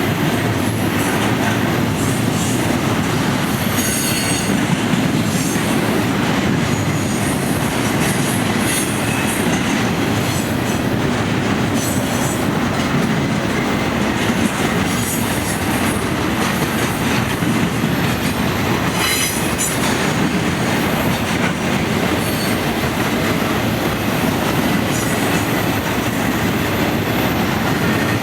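Intermodal freight train rolling past on the rails: a steady, loud noise of wheels on track, with brief high-pitched squeals of wheels against the rail now and then.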